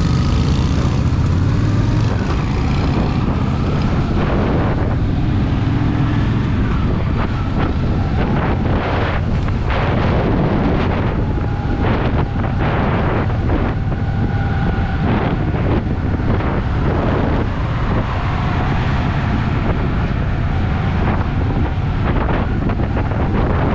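Honda Shadow VT750's V-twin engine running as the motorcycle rides along, under heavy wind buffeting on the microphone. The engine pitch shifts in the first couple of seconds, then holds steady.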